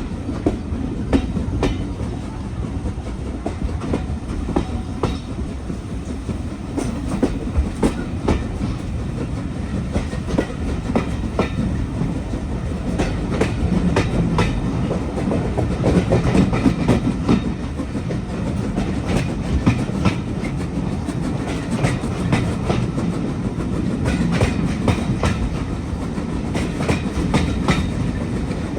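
Railway train running steadily along the track: a constant low rumble with the clickety-clack of wheels over rail joints, and sharp clicks scattered throughout.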